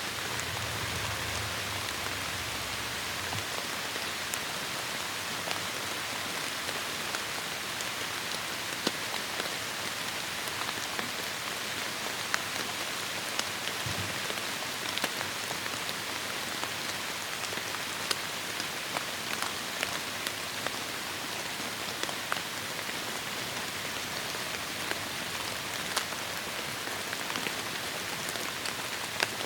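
Heavy rain falling steadily on forest foliage: a dense, even hiss with many sharp individual drops hitting close by. A brief low rumble sits under it in the first few seconds.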